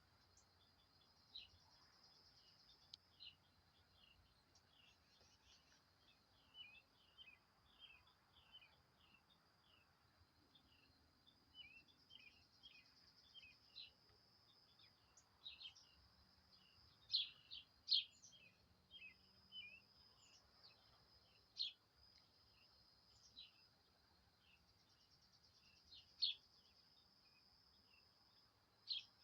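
Small birds chirping in short, scattered calls, loudest and busiest about halfway through, over a faint steady high-pitched drone.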